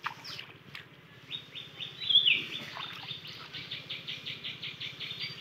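A brief splash of water at the start as hands scoop up pond water, then a bird calling a rapid run of short, high chirps, about four a second, loudest about two seconds in.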